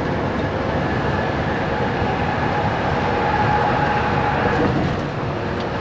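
Semi truck's diesel engine and road noise heard from inside the cab while driving, a steady rumble with a faint whine through the middle.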